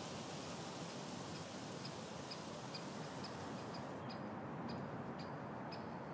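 Outdoor ambience: a steady faint hiss with a bird's short, high chirps repeated about two to three times a second, starting about a second in.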